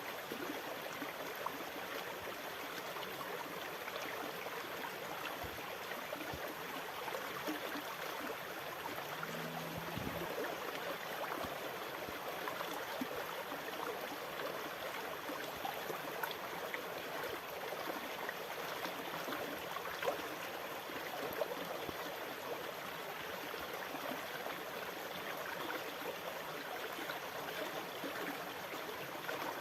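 Sea water making a steady, even rush with no distinct breaking swells.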